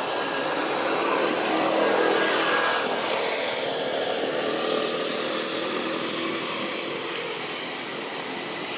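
A motor vehicle passing, its noise swelling to its loudest about two seconds in and then slowly fading.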